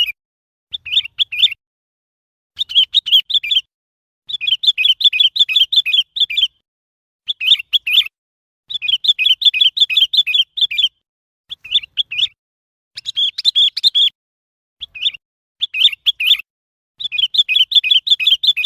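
Sooty-headed bulbul calling: repeated bursts of rapid chirping notes, about five a second, each burst lasting one to two seconds with brief silent gaps between.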